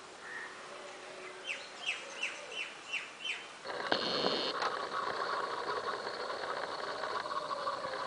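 A small bird gives a quick series of about six short, falling chirps. Then, about three and a half seconds in, a steady motor hum starts and runs on, louder than the chirps.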